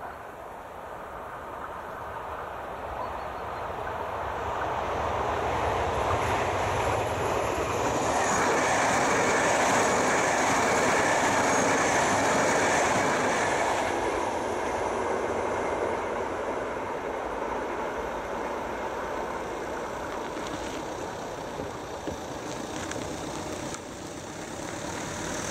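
VR Sm3 Pendolino electric tilting train passing at speed: its rushing wheel and air noise builds over several seconds, is loudest for about five seconds as the train goes by, then fades slowly as it moves away.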